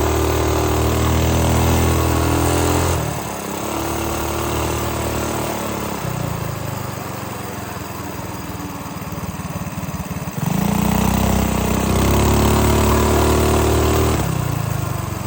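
Minibike's small engine held at high revs for about three seconds, then dropping to a low speed where the separate firing strokes can be heard. About ten seconds in it revs back up and holds high, then eases off near the end.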